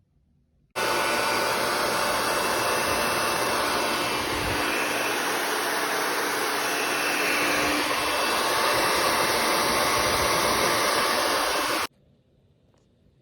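Asus Zephyrus G14 laptop's cooling fans running flat out: a loud, steady whoosh with faint steady whine tones. It starts abruptly about a second in and cuts off suddenly near the end.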